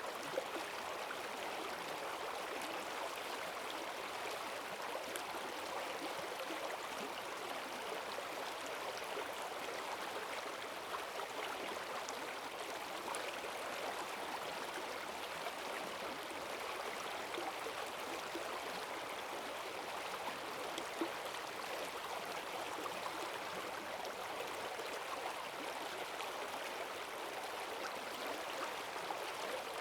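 Forest stream swollen with rainwater, rushing and gurgling steadily over its bed.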